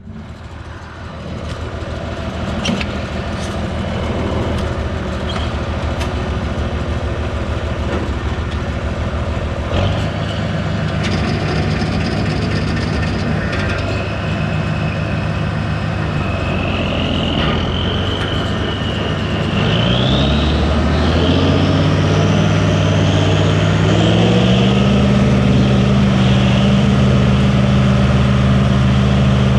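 Tractor engine running under way with a stalk chopper in tow. About two-thirds of the way through the engine note rises over a few seconds and then holds steady at the higher speed, with a faint whine rising above it just before.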